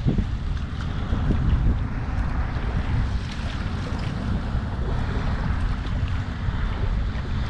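Wind rumbling steadily on the microphone over the wash of surf.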